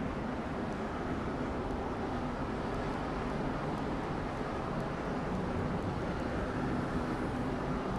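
Steady city street background: a low, even hum of traffic.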